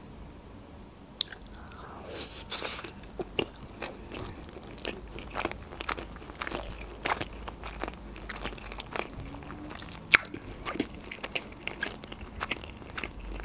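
Close-miked chewing of a mouthful of cheese-and-crab sushi roll: an irregular run of crisp crunches and bites.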